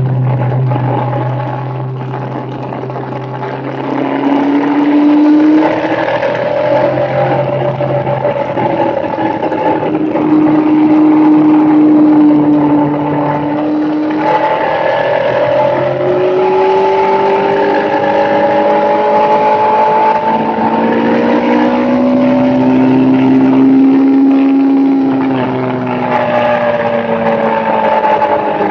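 A small motorbike running through grass, its motor pitch rising and falling again and again as the throttle opens and eases off.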